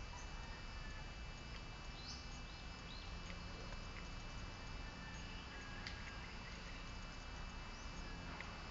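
Outdoor ambience: short bird chirps over a steady high-pitched insect drone, with a low rumble underneath.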